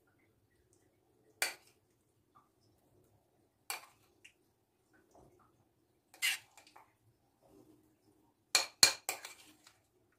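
Dishes and cutlery clinking as they are handled: three separate clinks a couple of seconds apart, then a quick run of louder clinks near the end.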